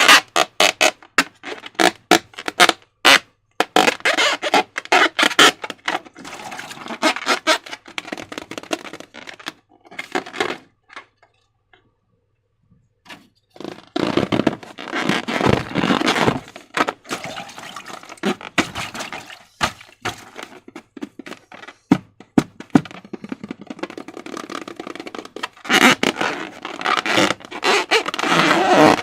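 Slime being squished and worked by hand, a run of sticky clicks and crackles that stops for about three seconds partway through, then picks up again.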